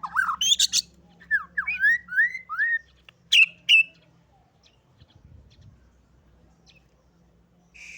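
White-rumped shama singing: a fast run of notes, then a row of slurred whistles, then two loud, sharp notes about three seconds in, after which the bird falls mostly quiet.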